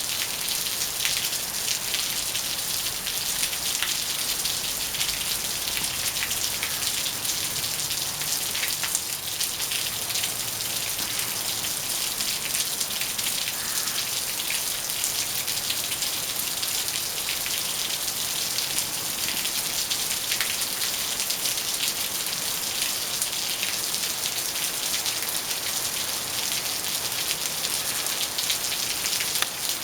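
Steady rain falling outdoors: an even hiss with scattered individual drop taps.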